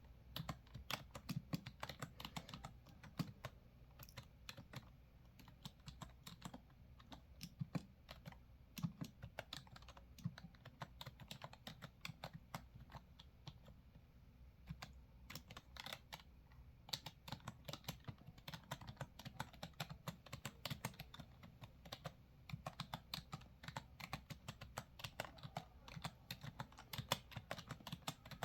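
Typing on a computer keyboard: a steady stream of keystroke clicks, several a second.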